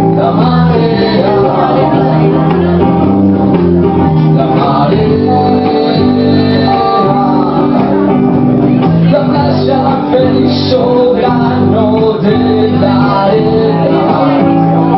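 A band playing live, with a man singing over the instruments.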